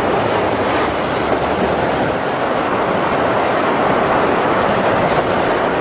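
Heavy rain pouring down in a thunderstorm, a loud and steady rushing hiss.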